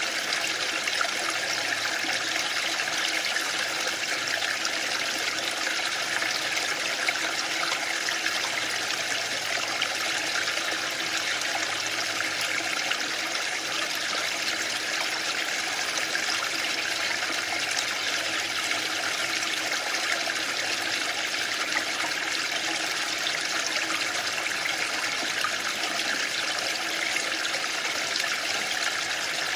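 Waterfall: a steady, unbroken rush of falling water, with a hissy, high-centred wash and no surges.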